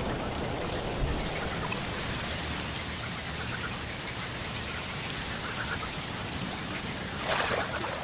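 Steady, even hiss of water, with a brief louder sound about seven seconds in.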